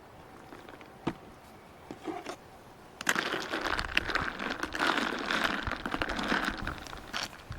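Crinkling, crackly rustling of material being handled, beginning suddenly about three seconds in and stopping shortly before the end, with a few light clicks before it.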